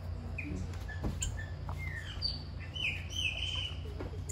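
Birds chirping: a scattering of short, high chirps and brief gliding calls, a little busier near the end, over a low steady hum.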